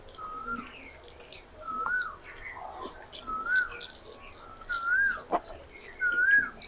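A bird calling over and over: a short whistled note that rises and then falls, five times at about one-and-a-half-second intervals. Faint clicks and squelches of eating by hand from rice plates underneath.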